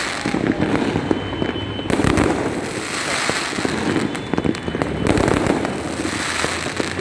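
Many fireworks and firecrackers going off all around at once: a dense, continuous barrage of bangs, pops and crackles, with heavier clusters of bursts about two and five seconds in.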